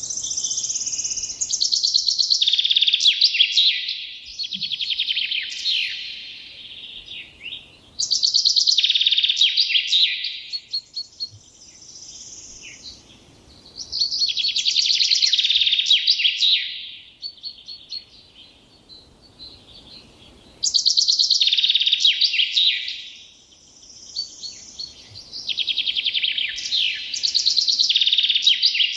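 A songbird singing loud, complex phrases of rapid trills and quick sweeps, about five phrases separated by short pauses.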